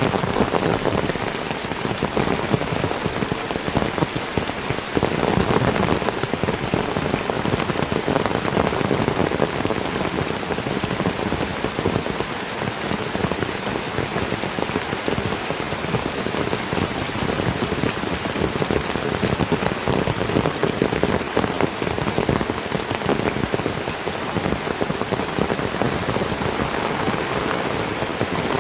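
Heavy tropical rain falling steadily on trees and foliage, a dense, unbroken patter of drops at an even level.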